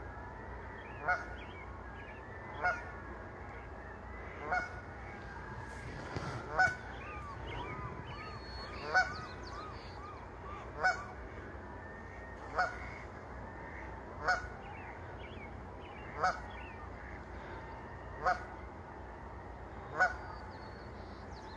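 A goose giving short single honks, one about every two seconds, with a run of faint quick peeps between about seven and ten seconds in.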